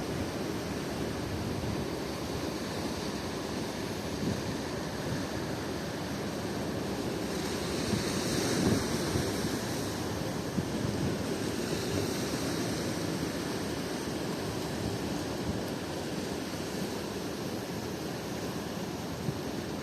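Sea surf breaking with strong wind buffeting the microphone: a steady rushing noise that swells louder about eight seconds in.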